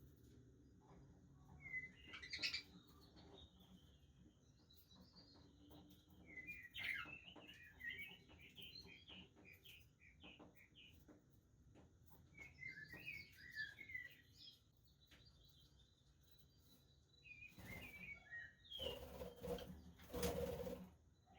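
Budgerigars chattering in short bursts of quick, warbling chirps, with a couple of louder rustling bursts near the end.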